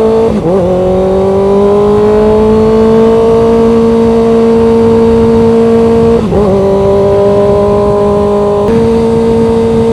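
Loud motorcycle engine and exhaust under steady cruising, its note rising gently. The note dips and drops in pitch briefly twice, about half a second in and about six seconds in, as the rider shifts up a gear.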